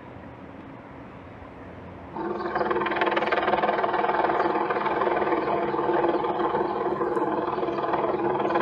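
Low steady hum, then about two seconds in a vehicle engine running steadily comes in loud, a constant pitched drone.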